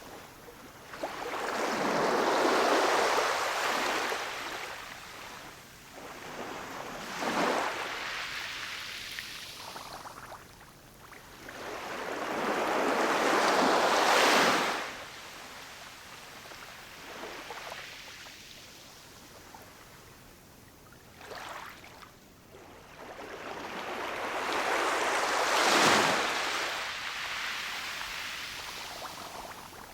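Ocean waves breaking on a shore and washing back, rising and falling in long surges. Three big waves break about 3, 14 and 26 seconds in, with smaller ones between.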